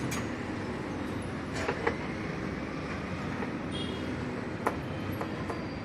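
Steady background rumble and hum of a vehicle service bay, with a few sharp metallic clicks and knocks: two close together a little under two seconds in, and one louder about two-thirds of the way through.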